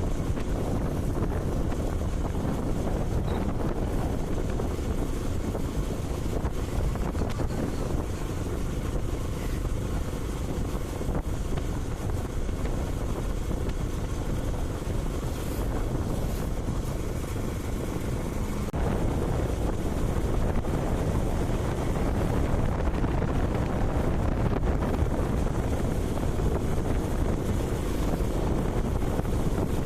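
Wind rushing over the microphone of a moving motorcycle, with engine and road noise underneath as a steady low rumble. It gets a little louder about two-thirds of the way through.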